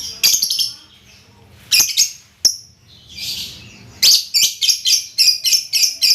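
Pet songbird singing: a few separate high-pitched chirps and short phrases, then from about four seconds in a fast run of sharp notes, about five a second.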